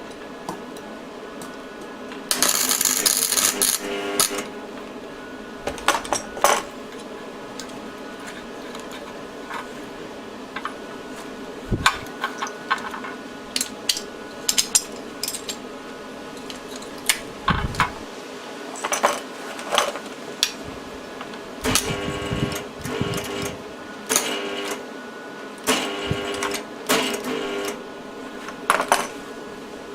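Small metal parts and hand tools clinking and clattering as an e-bike hub motor's back plate is fitted: irregular sharp knocks and clicks with a few longer rattles, over a steady background hum.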